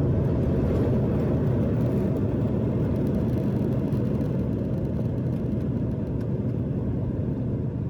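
Steady low rumble of an airliner's engines and airflow heard from inside the passenger cabin, easing slightly in loudness as the jet slows.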